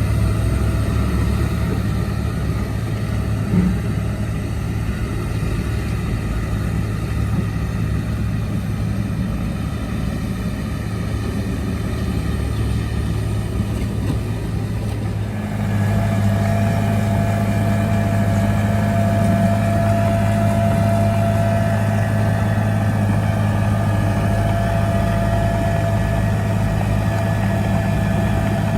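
Heavy diesel earthmoving machinery running steadily. About halfway through the sound changes abruptly to a louder, steadier engine drone with a thin whine on top.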